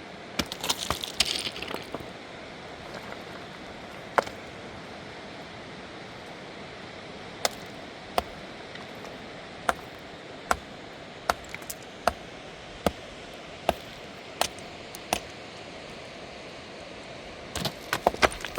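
A series of sharp, short knocks, about one every 0.8 seconds, over a steady rushing hiss, with rustling handling sounds at the start and near the end.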